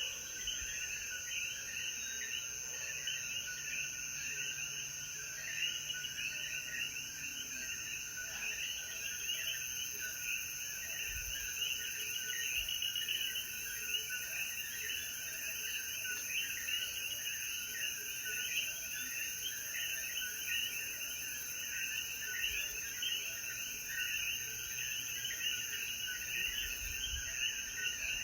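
Chorus of common coquí frogs calling after rain: many overlapping short rising two-note "co-quí" calls repeating without pause, over a steady high-pitched hum.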